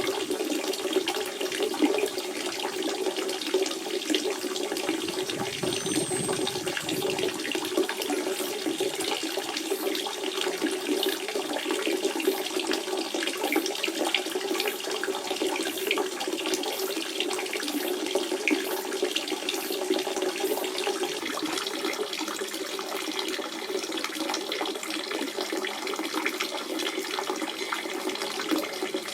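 Natural spring water running and splashing steadily, a continuous burble with small droplet splashes throughout.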